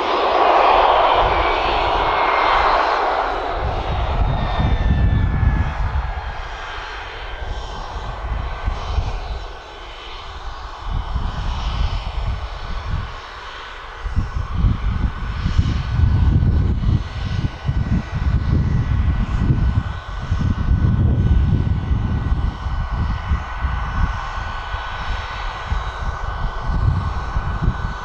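Business jet engines: a loud jet roar fades over the first few seconds as its whine falls in pitch. A steady high engine whine then holds over an uneven low rumble.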